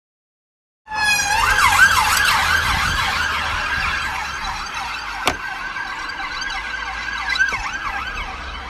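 Emergency vehicle siren starting about a second in, sounding in quick rising-and-falling sweeps, with a low rumble underneath. A single sharp click comes about halfway through.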